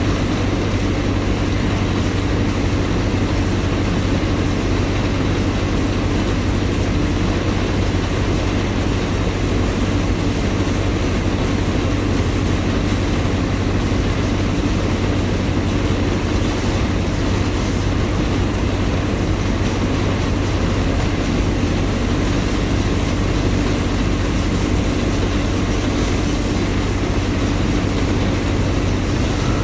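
Diesel engine of a Mercedes-Benz OF-1721 BlueTec 5 bus chassis running steadily at an even pitch, a constant low hum over heavy mechanical noise.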